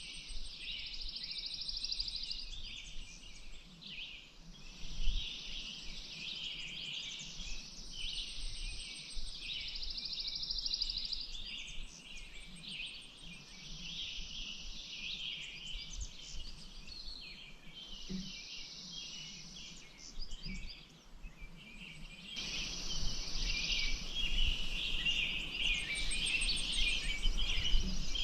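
Outdoor ambience of many small birds chirping and trilling together over a faint low rumble. A little past two-thirds of the way through, the background noise steps up suddenly and becomes fuller.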